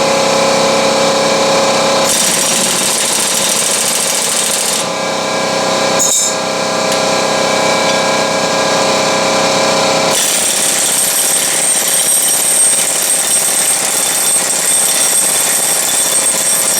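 Impact wrench hammering continuously on two locked lug nuts, trying to break a tight wheel stud loose from the tractor hub. Its tone shifts a few times along the way.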